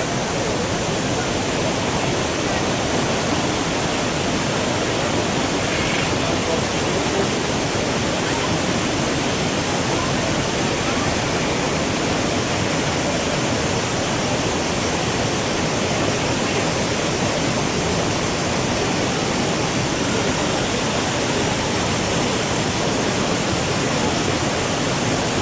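Manavgat waterfall on the Manavgat River: water pouring over the falls in a steady, unbroken rush that does not rise or fall.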